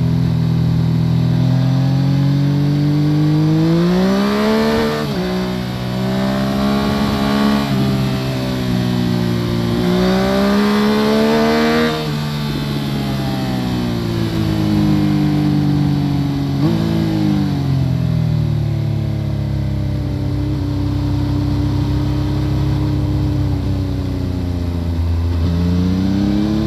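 Yamaha FZ-09's three-cylinder engine through an Akrapovic full exhaust system, heard from under the seat while riding. The engine revs up and drops sharply twice, about 5 and 12 seconds in, as it shifts up through the gears. It then runs with slowly falling revs, jumps in pitch suddenly about 17 seconds in, and climbs again near the end.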